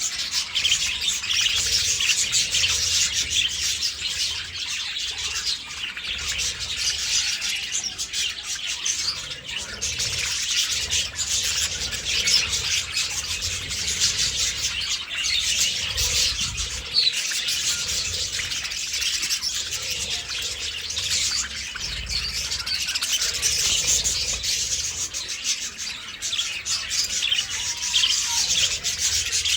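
A flock of budgerigars chattering: a continuous, dense mass of quick high chirps from many birds at once.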